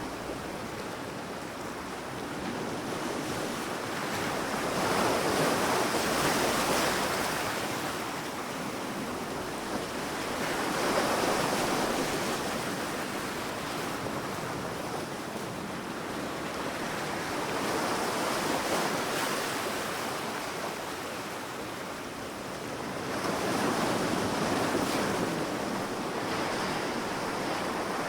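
Sea waves breaking and washing up on a beach, swelling and falling back in slow surges about every six seconds.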